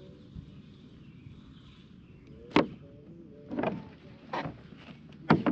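A hooked fish fought beside a fishing kayak: a run of sharp splashes and knocks, four in about three seconds, starting about two and a half seconds in.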